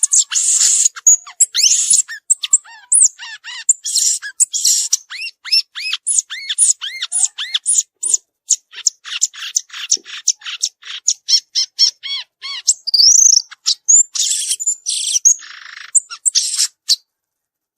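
Violaceous euphonia singing: a long, fast run of short chirping notes mixed with a few harsh, scratchy phrases, stopping abruptly near the end.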